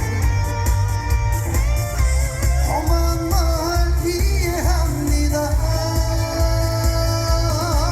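Live trot song played loud through a concert PA: a singer's voice with wide vibrato over a band backing and a heavy pulsing bass beat.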